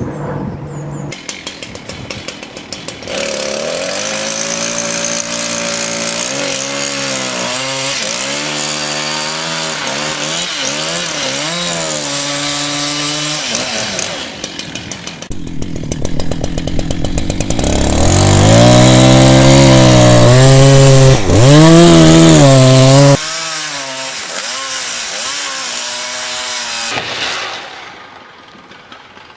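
Chainsaw running at full throttle while cutting wood, its pitch repeatedly dipping and climbing back as the chain bites. It gets louder partway through, then drops off near the end.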